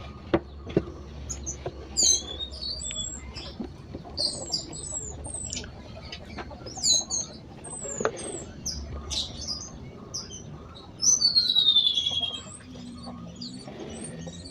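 Small birds chirping and calling repeatedly in short high notes, with a loud falling trill about eleven seconds in. Scattered sharp clicks or knocks sound among the calls.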